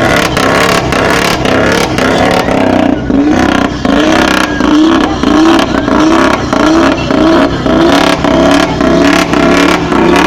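Car engine and exhaust being revved in quick repeated throttle blips, the pitch rising and falling about twice a second.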